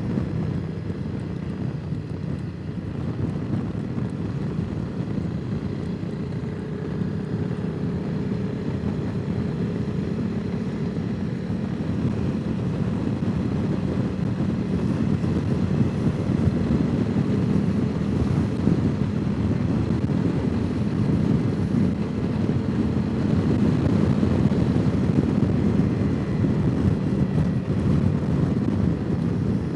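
Honda CRF300 Rally's single-cylinder engine running at a steady road speed under heavy wind rush on the microphone, getting a little louder in the second half.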